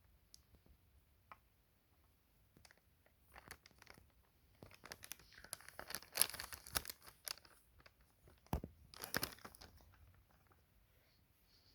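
Rustling, crinkling and clicking of small objects being handled, in a run of short rasping strokes that starts about three seconds in and stops shortly before the end, loudest near the middle.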